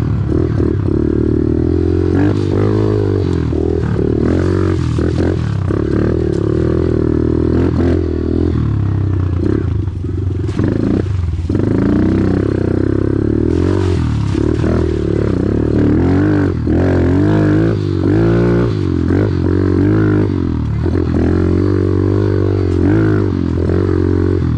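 Small off-road engines running and revving, the pitch rising and falling over and over as the throttle is worked.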